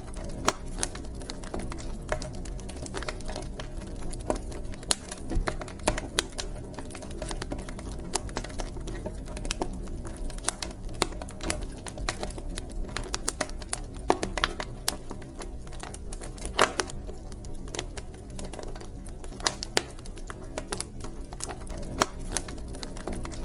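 Wood fire in a fireplace crackling, with irregular sharp pops and snaps, a few louder ones, over a steady low rumble of the flames.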